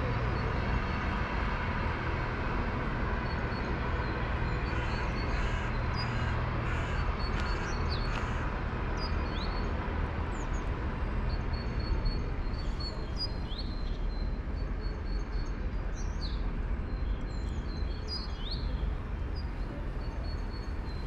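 Small birds chirping, in short high notes that come more often in the second half, over a steady low background rumble.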